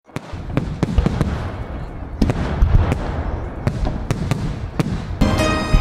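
Aerial fireworks shells bursting with sharp bangs at uneven intervals over a constant low rumble. Music starts just before the end.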